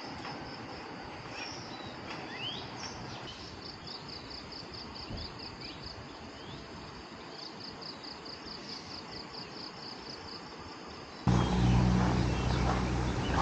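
Outdoor ambience with an insect trilling high up in pulsed runs of about five pulses a second, and a few short bird chirps. About 11 s in, a much louder low, steady sound cuts in suddenly.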